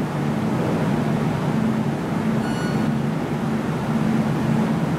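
Steady on-board running noise of an MTR Tung Chung line K-train, with a low hum that pulses about every three-quarters of a second. A brief high tone sounds near the middle.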